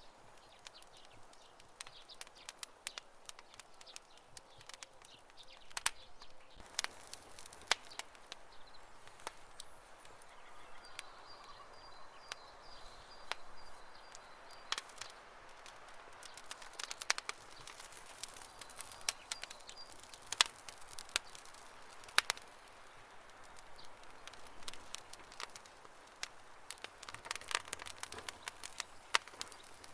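Wood campfire crackling: irregular sharp pops and snaps over a soft steady hiss, busier in places.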